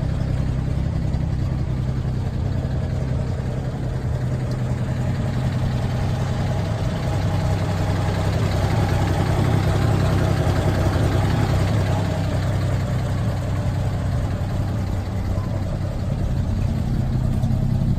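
Original six-cylinder engine of a 1949 GMC 100 pickup running steadily, a little louder about halfway through. It sounds healthy and runs well.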